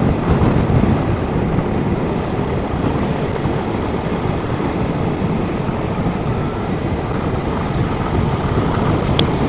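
Steady wind and road rush from a motorcycle being ridden at town speed, a low even rumble with no clear engine note.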